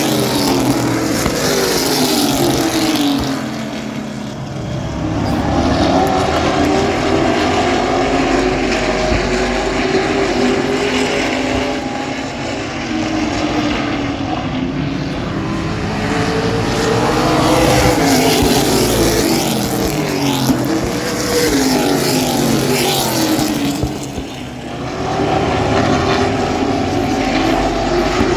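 Several race-truck engines running laps on an oval track, their pitch rising and falling as they go past and around the turns; the sound dips briefly twice.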